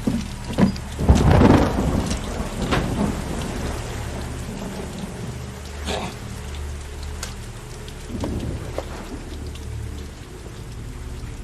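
Heavy rain falling steadily with thunder rumbling, the loudest rumble swelling about a second in.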